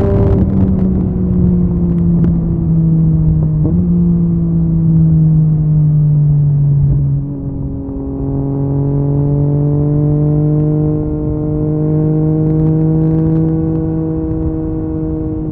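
Yamaha MT-09's inline-three engine running through an Akrapovic carbon exhaust while riding at part throttle. The engine note eases slowly lower, with small breaks about four and seven seconds in, then climbs gradually again.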